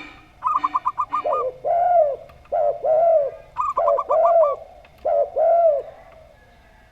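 Doves cooing in two phrases. Each phrase is a quick run of about seven short, higher notes, followed by four lower, arched coos.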